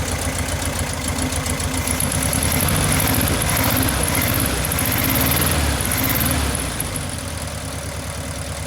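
Air-cooled VW Beetle flat-four engine running steadily, now firing on all four cylinders. The engine speed comes up a little from about two seconds in and settles back down about six and a half seconds in.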